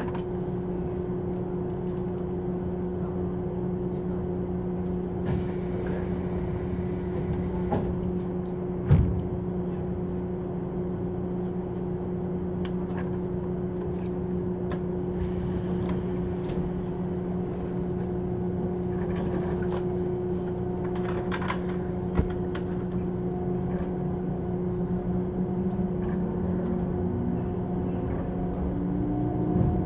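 Inside a JR East 185-series electric train on the move: a steady hum from the traction motors and gearing over wheel-on-rail running noise, with a single knock about nine seconds in. Near the end the motor whine rises steadily in pitch as the train picks up speed.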